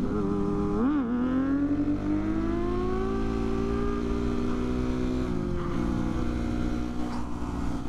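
Motorcycle engine heard on board while riding: a throttle blip about a second in, then the pitch climbs steadily as it accelerates, holds, and drops sharply about five and a half seconds in before running steady again. A low rumble of wind and road noise runs underneath.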